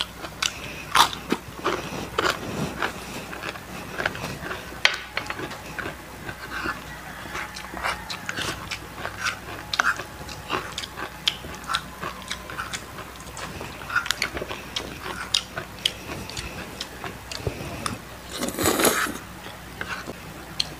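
Close-up crunching and chewing of deep-fried crispy chicken skin: a steady run of sharp crackling crunches, with a louder, longer crunch near the end.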